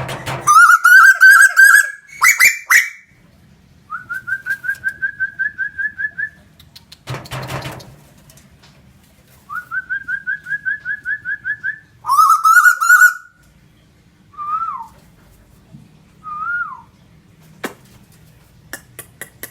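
A tame tuwu bird calling repeatedly: rapid pulsed trills that rise in pitch, given as several separate series, with two short swooping whistled notes later on. Twice a loud rustling burst breaks in, once at the start and once about seven seconds in.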